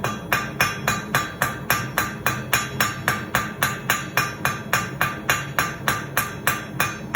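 Blacksmith's hammer striking hot 1/4 inch round steel bar on an anvil in a steady, even run of blows, about three to four a second, each with a short metallic ring. The blows are drawing the end of the bar down to a point for a hook.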